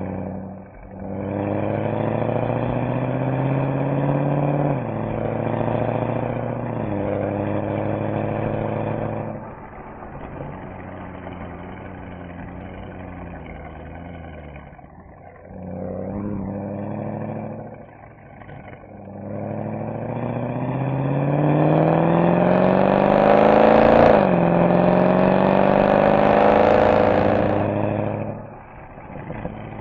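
Mercedes-AMG SL63's V8 accelerating in repeated pulls. The pitch climbs and drops suddenly at each upshift, with quieter stretches off the throttle between pulls. The longest and loudest pull comes in the second half.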